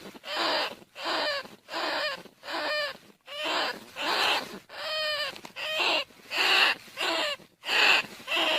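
Rats squealing, as used in a decoy call for rice-field rats and bandicoot rats: a rapid series of short, shrill squeals, each falling in pitch, about one and a half a second.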